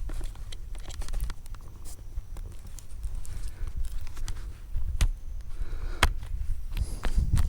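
Rustling and scattered sharp clicks of gear being handled, over a steady low rumble; the clearest clicks come about five and six seconds in.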